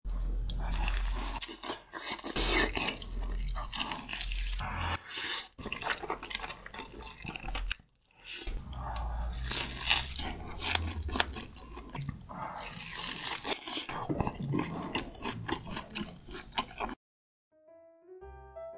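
Close-miked eating sounds: wet chewing and crunching of tomahawk steak and spicy noodles, in short stretches with a few brief breaks. It cuts to silence near the end, and soft piano music begins.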